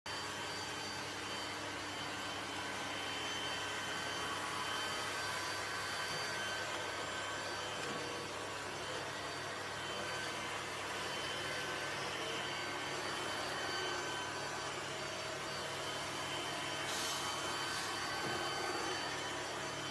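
A steady rushing noise from a running motor or fan, with a few faint steady tones over it and a slight brightening around the seventeenth second.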